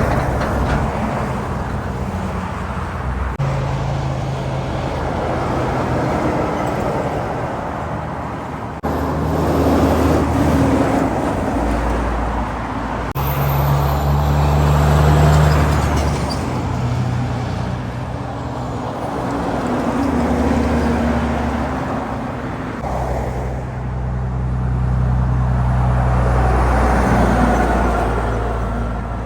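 Highway traffic passing one vehicle after another, cars and heavy trucks among them. Engine hum and tyre noise swell and fade several times as each passes.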